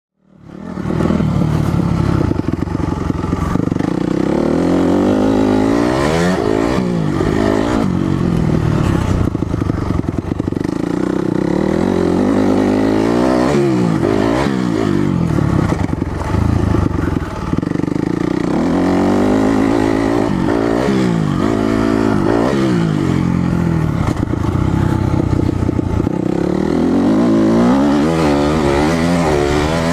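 2006 Honda CRF250R's four-stroke single-cylinder engine being ridden hard, revving up and down over and over, its pitch rising and falling every couple of seconds as the throttle opens and closes.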